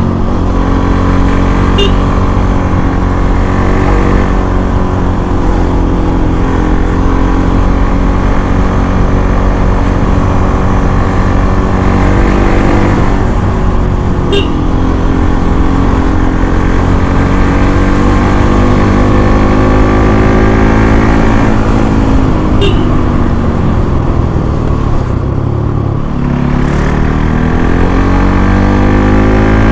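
Bajaj Pulsar NS200's single-cylinder engine through its stock exhaust, ridden hard: the engine note sags and climbs several times with throttle and gear changes, then rises steeply near the end. A constant rush of wind noise runs underneath.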